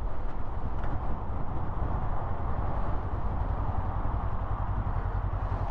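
Kawasaki GPZ500 EX parallel-twin motorcycle engine running, with a steady low rumble under an even rushing noise.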